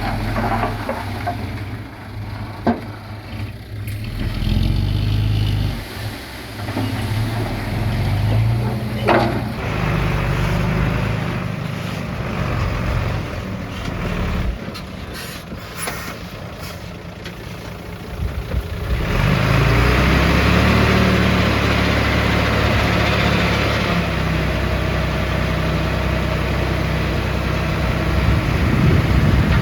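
Heavy diesel earthmoving machinery, dump truck and bulldozer, running steadily, with a few short sharp clanks and hisses. About two-thirds of the way through it gets louder, with a rushing noise on top of the engines.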